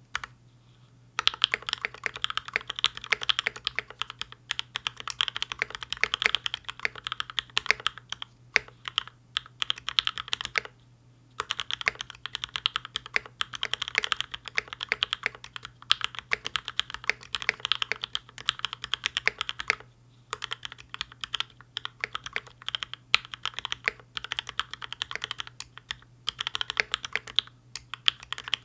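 Fast typing on a mechanical keyboard with PBT Cherry-profile keycaps, the board set on a deskmat: dense runs of keystroke clacks broken by short pauses three times. A faint steady low hum runs underneath.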